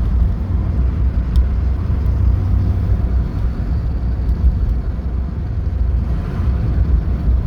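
1983 Porsche 944's 2.5-litre four-cylinder engine and road noise heard from inside the car cruising at about 55 mph: a steady low drone.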